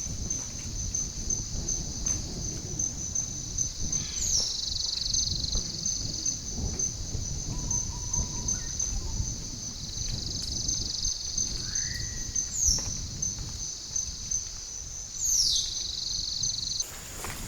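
Tropical rainforest ambience: a steady, high-pitched insect drone with a pulsing trill, crossed three times by descending whistled bird calls, over irregular low rustling noise. The sound shifts abruptly near the end.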